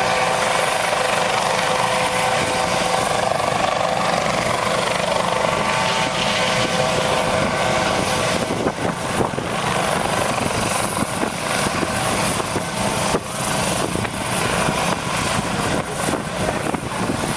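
Aircraft engine droning overhead, a steady whine over a broad hum, which thins out about halfway through as uneven buffeting takes over.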